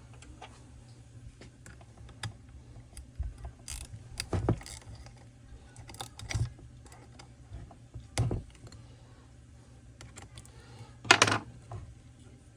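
Hand tools and small metal parts clicking and clinking as a chainsaw is taken apart, with a few louder knocks; the loudest is a short cluster of knocks near the end.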